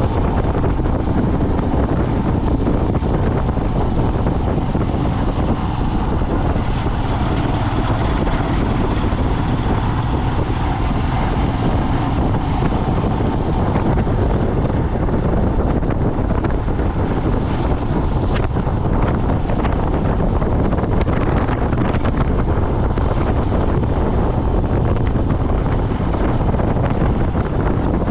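A vehicle driving along a road, with a steady rush of wind over the microphone and a few faint knocks in the second half.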